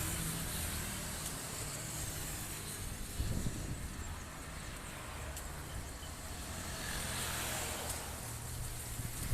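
Strong gusty wind rushing and buffeting the microphone, with a steady low hum underneath and a stronger low rumble about three seconds in.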